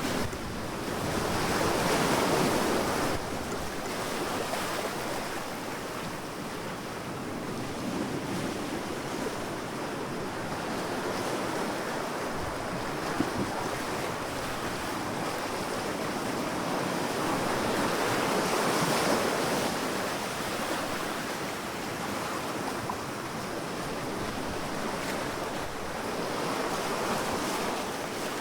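Sea waves washing onto a beach in a continuous surf wash, swelling louder as waves break about two seconds in, around the middle and again near the end.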